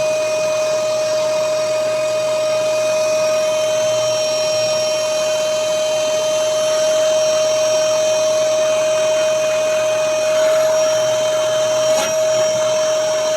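Vacuum cleaner running steadily, its motor giving a constant whine over the rush of air, while it sucks up scattered mosquito-coil ash. A single sharp click near the end.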